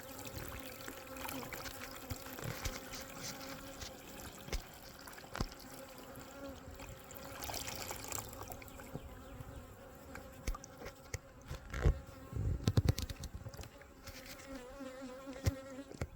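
Honeybees buzzing around an open hive, a steady hum. A cluster of loud knocks about twelve seconds in, with scattered lighter clicks elsewhere.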